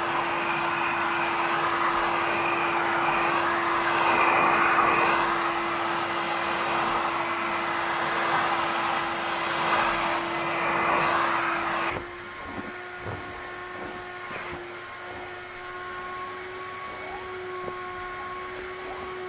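VAX V-020 multifunction vacuum cleaner running: a steady motor hum under a rush of suction air that swells and fades. About twelve seconds in, the air rush drops off sharply, leaving the motor's hum and a thin whine with a few light clicks.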